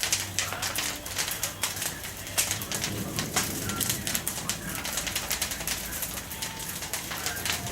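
Bonfire of fallen pine twigs and branch tips burning, crackling with rapid, irregular pops and snaps.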